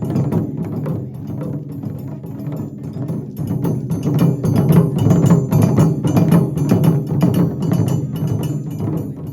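Japanese taiko drum ensemble playing a fast, driving rhythm of drum strikes with sharp wooden clicks among them, quieter for the first few seconds and louder from about four seconds in.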